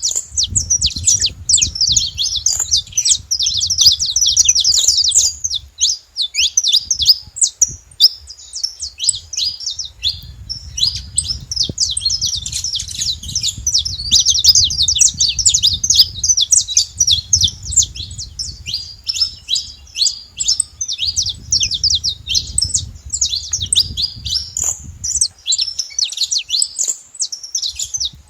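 Saffron finch chirping noisily in a rapid, unbroken stream of short high-pitched notes. A low rumble sits underneath for long stretches.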